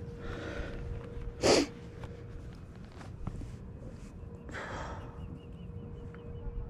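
A person breathing close to the microphone: a soft exhale, then a short, loud snort about a second and a half in, and another exhale near five seconds. A faint steady hum runs underneath.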